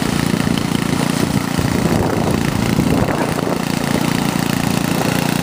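Engine of a snow-clearing machine running steadily at one even pitch.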